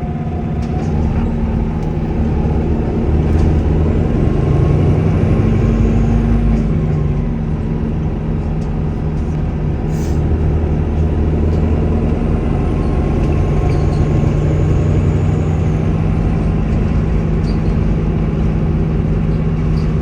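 Volvo B5LH hybrid bus's four-cylinder diesel engine running under load, with a faint high-pitched turbo whistle that rises and falls twice. A sharp click comes about halfway through.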